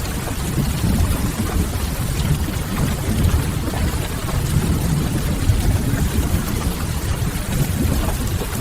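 Steady rain with a deep, even rumble underneath, a mixed rain-and-fireplace ambience track.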